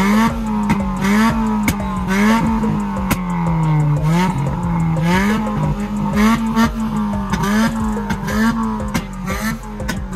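Suzuki Cultus hatchback engine revved hard and held high, the revs bouncing up and down about every half second, with sharp pops and crackles from the exhaust.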